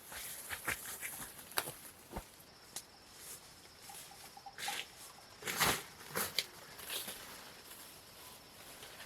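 Scattered rustles, clicks and knocks, loudest a little past halfway, over a faint steady high whine that begins a few seconds in.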